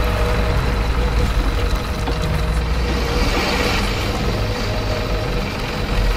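Truck engine sound running steadily, a low rumble with a thin steady whine above it.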